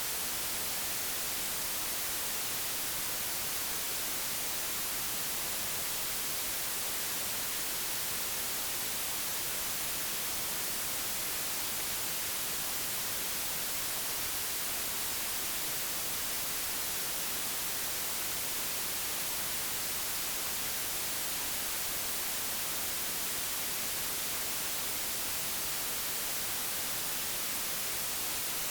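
Digitally generated white noise: a steady, even hiss with no change in level.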